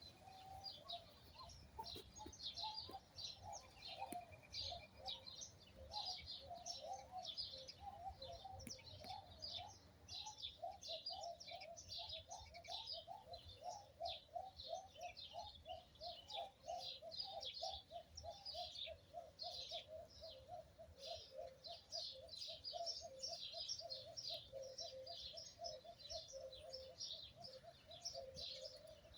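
Birds calling continuously: many small birds chirping high, over a lower call repeated a few times a second without a break.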